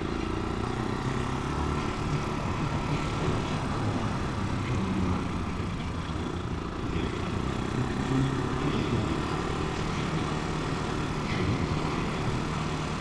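Italika 250 motorcycle engine running steadily while riding over a rough road of rocks and cement, with the rumble of the tyres on the stones.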